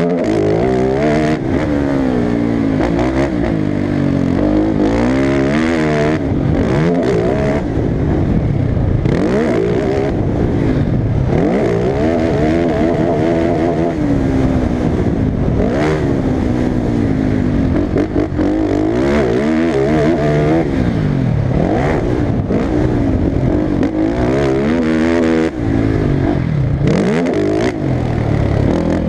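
Motocross racing engine revving hard and falling back over and over, its pitch climbing and dropping every second or two as the throttle is worked and gears are shifted around the track.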